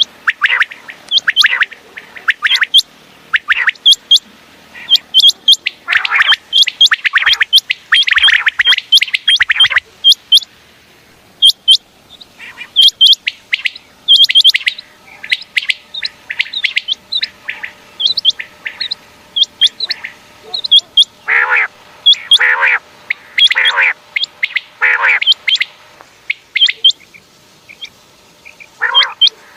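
Common quail calling over and over: a steady run of short, sharp, high chirps, with a few lower, harsher calls coming about two-thirds of the way through.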